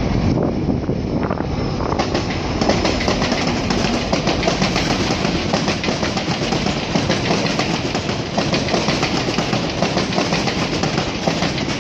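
GO Transit commuter train of bilevel coaches rolling past, with a steady rumble of wheels on rail and rapid clicking over the track joints.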